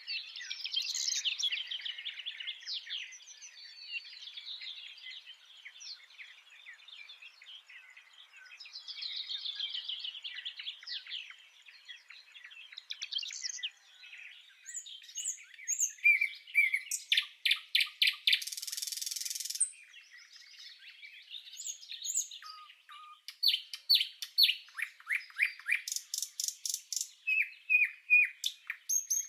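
Several songbirds singing and chirping together, with rapid trills and quick runs of repeated notes that grow louder in the second half.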